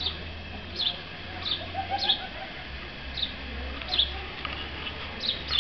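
A small bird chirping: about eight short, high chirps, each dropping in pitch, repeated every half second to a second, over a faint low rumble.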